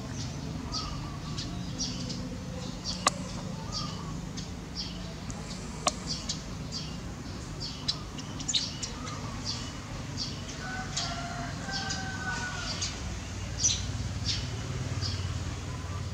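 Birds chirping in short, high notes, two or three a second and irregular, over a low steady background rumble. Two sharp clicks come about three and six seconds in.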